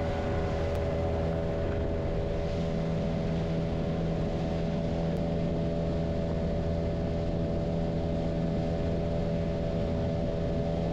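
Engine running at a steady speed, a constant drone with an even pitch.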